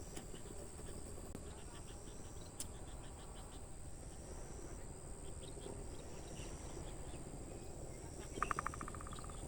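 Crickets and other field insects chirping and trilling steadily, one high continuous buzz with shorter trills repeating over it. About a second before the end, a short, rapid rattling call rises above them, with a single click about a third of the way in.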